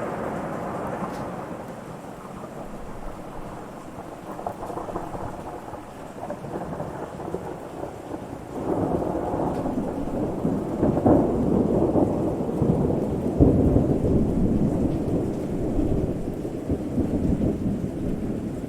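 Rolling thunder over steady rain. One rumble dies away at the start, then a new peal builds about halfway through, is loudest around two-thirds of the way in, and tails off toward the end.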